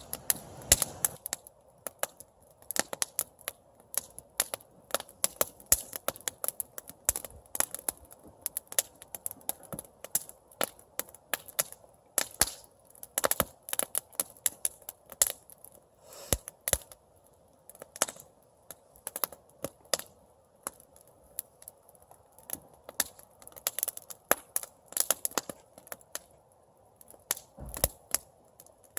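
Campfire crackling: irregular sharp pops, often several a second, over a faint steady hiss from the flames.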